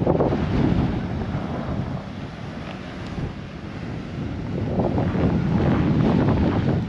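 Blizzard wind buffeting the microphone: a loud, low rumbling roar that gusts and eases, strongest at the start and again about five to six seconds in.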